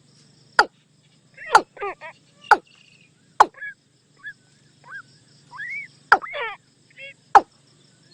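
Watercock calling: a series of sharp, downward-sweeping notes about one a second, some followed by quick falling double notes, with a pause in the middle filled by a few short rising chirps.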